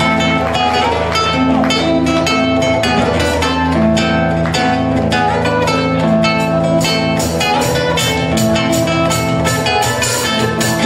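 Acoustic guitar music in Argentine folk style: quick plucked and strummed notes over held bass notes, growing more rhythmic in the second half.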